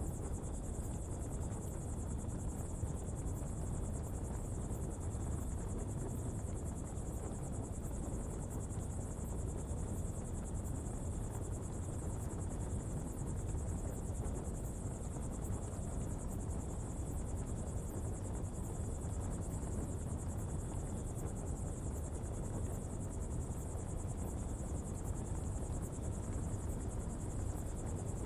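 Steady low rumble and hiss of a coal-fuelled pottery fire burning, with a steady high-pitched insect trill over it.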